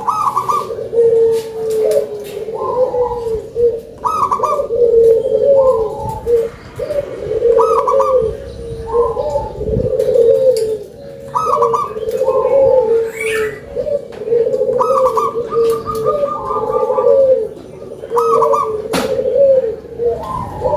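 Local zebra dove (perkutut) cooing repeatedly in steady phrases, a low rolling coo with higher notes on top, a full, loud voice. A few faint chirps and clicks of other small birds sound in the background.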